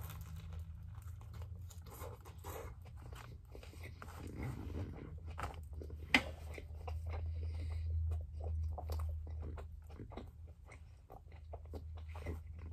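Chewing a roast beef hoagie on a toasted roll, with crunches from the crispy crust and one sharper crunch about six seconds in, over a steady low hum.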